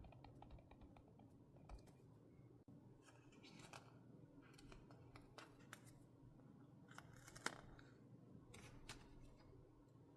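Scissors cutting paper: a scattering of faint snips and clicks, the sharpest about seven and a half seconds in.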